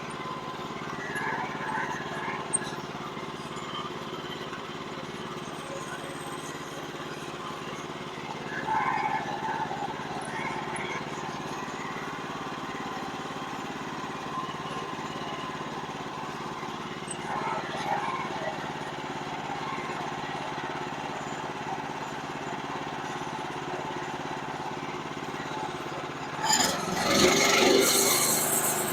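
Small gasoline engine of a Woodland Mills portable sawmill running steadily. Near the end comes a louder, harsher burst of noise lasting about two seconds.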